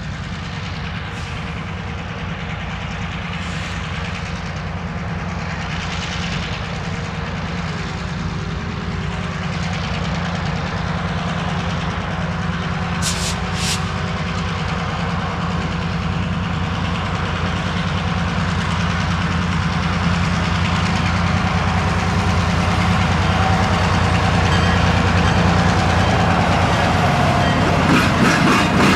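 Indiana Harbor Belt diesel locomotive approaching with its engine running, a steady low rumble that grows louder as it nears. In the last moments the wheels clack over the rail joints as the locomotive and its cars pass close by.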